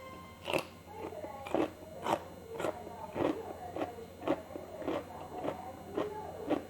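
Close-miked chewing of bakso meatballs, with wet mouth sounds coming in short strokes about twice a second.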